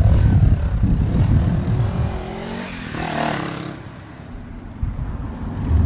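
Motorcycle engine running and revving, rising and falling in pitch, with a short hiss about three seconds in.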